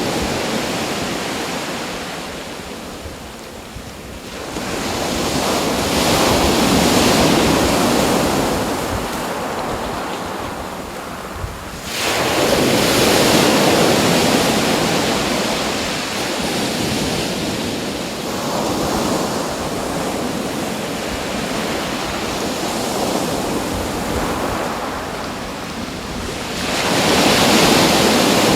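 Ocean waves breaking on a shore, each wash swelling and falling away every several seconds, one crashing in suddenly about twelve seconds in.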